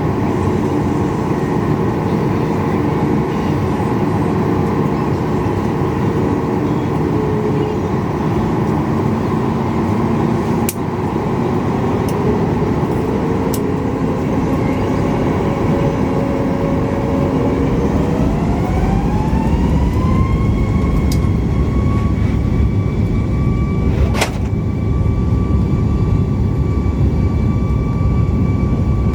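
Inside the cabin of a Boeing 737 MAX 8, its CFM LEAP-1B turbofan engines run steadily. About two-thirds of the way in, their whine rises in pitch over a couple of seconds and then holds high, with a deeper rumble growing beneath, as the engines spool up toward takeoff thrust. A few brief sharp clicks.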